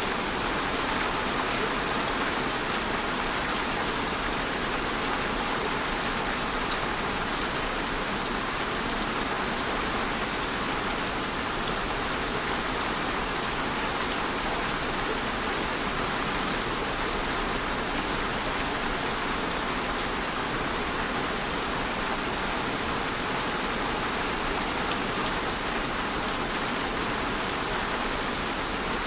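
Steady rainfall, a dense even hiss of drops with faint individual patters, unchanging in strength.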